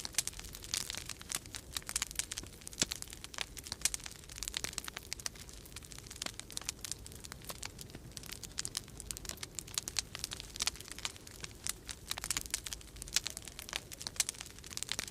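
Wood fire crackling in a fireplace: dense, irregular snaps and pops, over a steady low rumble.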